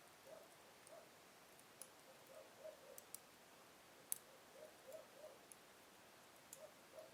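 Wood burning slowly in a fireplace, crackling faintly: sparse small snaps and pops, the sharpest about four seconds in.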